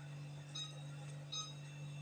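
Refrigerator's door-open alarm beeping faintly: short high beeps repeating about every three-quarters of a second, over a steady low hum.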